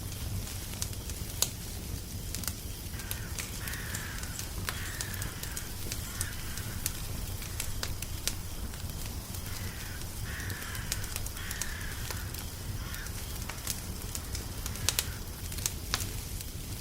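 Crackling wood fire: a steady low rumble with sharp pops and snaps scattered throughout. Two short runs of repeated bird calls sound over it, a few seconds in and again about ten seconds in.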